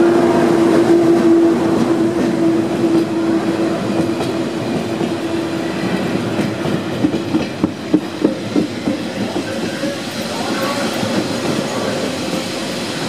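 A Matterhorn Gotthard Bahn metre-gauge train rolls slowly into the station. The HGe 4/4 II electric locomotive goes by first with a steady whine that fades over the first few seconds. Coaches follow with wheel clatter, including a quick run of clacks over rail joints about seven to eight seconds in.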